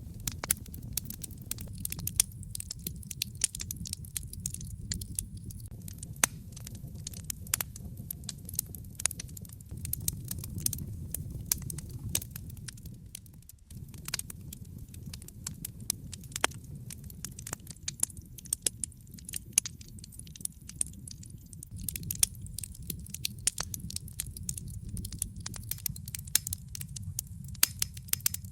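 Wood fire crackling, with many sharp pops scattered irregularly over a low, steady rumble of burning. The rumble dips briefly about halfway through.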